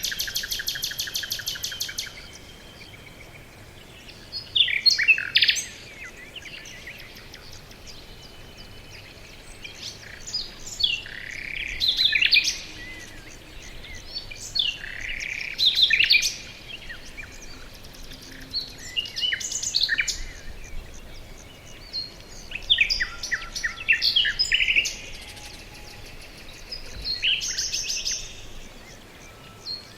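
Songbirds singing in a forest, a phrase every few seconds. It opens with a fast, evenly paced trill about two seconds long, over a faint steady hiss.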